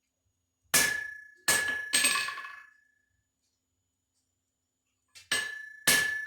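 Hammer blows on metal, each one ringing as it fades: three quick strikes, a pause of about three seconds, then three more.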